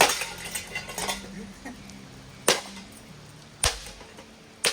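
A metal ceiling fan being struck hard four times, each blow a sharp clanging impact; the first sets off about a second of rattling metal parts, and the third, about two thirds of the way through, is a duller, deeper thud.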